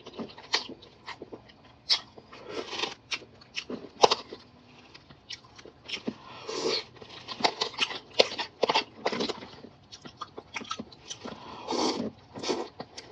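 Close-up eating sounds: crunching bites and chewing of crispy fried food, many sharp crackles with wet mouth sounds between them.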